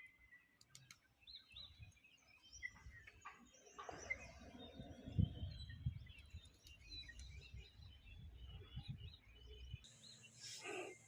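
Several birds chirping and calling, faint, over a low rumbling noise that grows strongest about halfway through.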